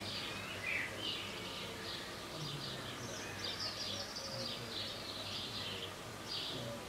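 Small birds chirping and twittering in short repeated phrases in the background, over a low steady hum.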